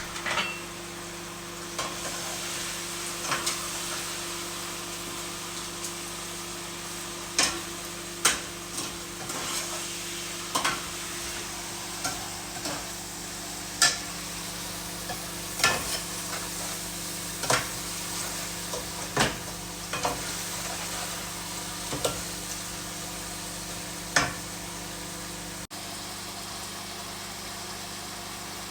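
Food frying in a pan with a steady sizzle, while a utensil stirring the pan knocks sharply against it every second or two; the knocks stop near the end.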